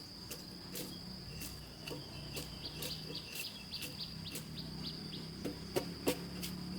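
Insects trilling with a steady high tone, mixed with quick irregular chirps and ticks and a faint low hum. A few sharper knocks come near the end.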